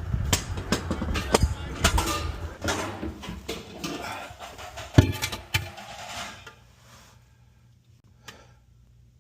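Handling clatter of tools and metal plumbing parts under a sink: a run of irregular clicks and knocks with one sharp knock about five seconds in, then quiet with two faint clicks near the end.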